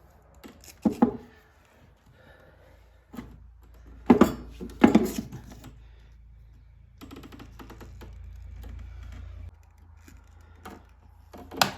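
Knocks and clunks of a small lawnmower engine being tipped and handled while its oil pours out through the filler neck: a few light knocks, then two loud clunks about four and five seconds in, and another near the end.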